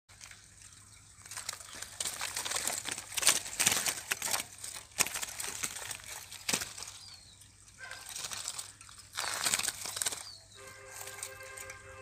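Caged bramblings fluttering and scrabbling against a wire cage, heard as irregular rustling and crinkling in two spells, with a few faint short high chirps. About ten and a half seconds in, a held musical chord of several steady tones comes in.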